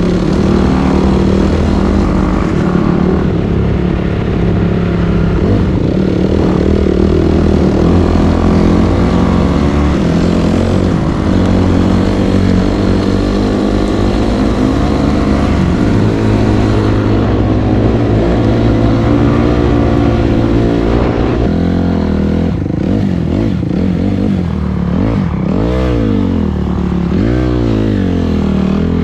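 Dirt bike engine running hard while riding, the revs holding steady at first and then rising and falling repeatedly in the last several seconds as the rider works the throttle.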